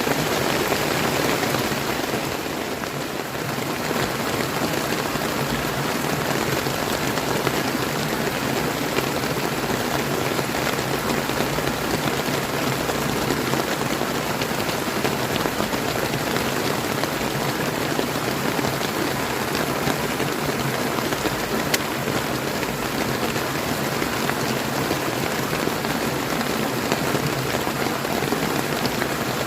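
Steady rain falling, mixed with the rushing of a clear river's water, a dense even hiss that eases slightly about two seconds in.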